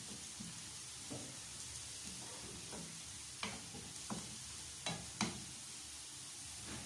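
Rice and vegetables frying with a faint, steady sizzle in a non-stick frying pan while a wooden spatula stirs them, knocking against the pan a handful of times.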